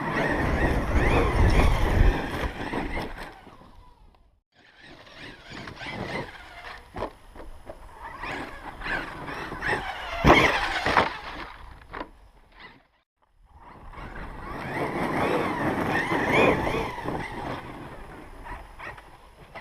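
Losi LST XXL2-E electric RC monster truck running hard, its battery-powered motor whining up and down with the throttle over driving noise. There is a sharp knock about ten seconds in, and the sound drops out briefly twice.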